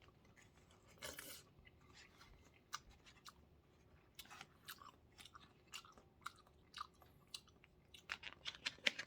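Faint close-up chewing of food with small wet mouth clicks and smacks scattered throughout.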